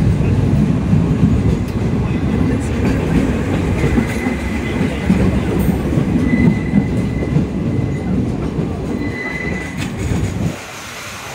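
Sagano Romantic Train heard from its open-air carriage: the steady rumble and clatter of wheels on rail, with a faint high wheel squeal in the middle. The rumble falls away sharply near the end.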